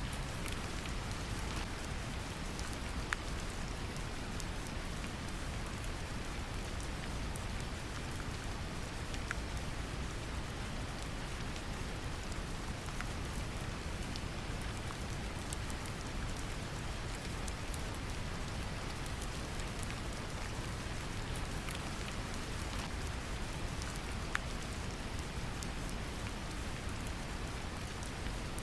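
Steady deep brown noise mixed with gentle rain: a constant low rumble with scattered raindrop ticks on top, a couple of drops standing out slightly louder.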